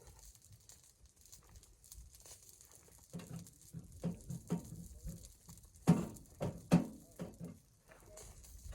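A run of irregular knocks and thumps, the two loudest coming close together past the middle, over a faint steady hiss.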